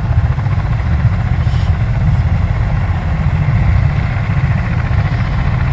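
Bell-Boeing V-22 Osprey tiltrotor running at ground idle, its twin turboshaft engines and proprotors giving a steady, low throbbing rumble.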